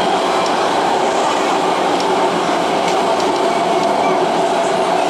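CAF-built MTR Tung Chung Line train running at speed, heard inside the car: loud, steady running noise with a hum. A flat spot on a wheel beats so fast that it merges into a continuous throb like a hovering helicopter.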